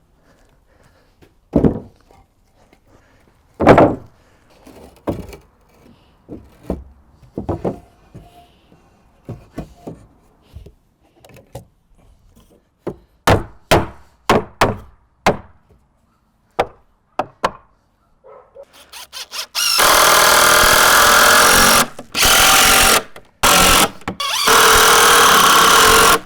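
Cordless drill running in bursts into wood, four long runs near the end, after a stretch of scattered knocks and clatter from handling lumber.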